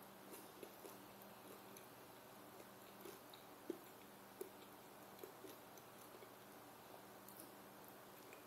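Faint close-up chewing: soft wet mouth clicks of a person eating with her fingers, with two sharper clicks a little past the middle. A faint steady low hum runs underneath.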